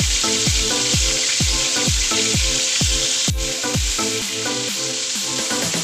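Chicken pieces deep-frying in hot oil, a steady, even sizzle as they are put back in to cook through after being scored. Background music with a steady beat of about two thumps a second plays over it.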